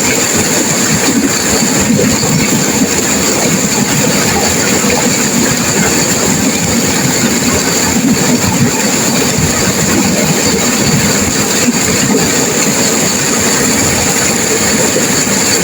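Turbulent river water rushing and crashing, a loud, steady wash of noise that holds even throughout.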